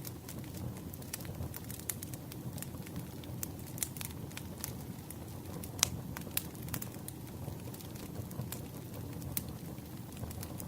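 Campfire crackling: irregular sharp pops and snaps of burning wood over the low, steady rush of the flames, with the loudest pop a little before six seconds in.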